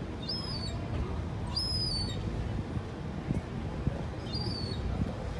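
High, thin whistled bird calls, three short ones, each bending slightly downward, over a steady low rumble.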